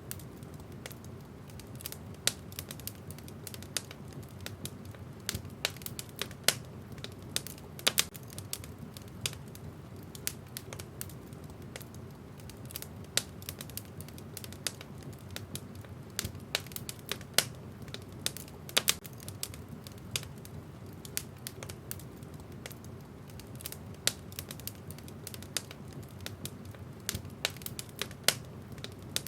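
Wood fire burning in a fireplace: a steady low rumble of the flames with irregular, sharp crackles and pops from the burning logs, several a second.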